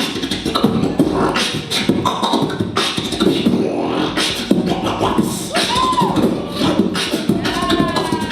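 A solo beatboxer performing live: a fast run of vocal drum hits and clicks over a low buzzing bass. Short sung glides break in about six and seven and a half seconds in.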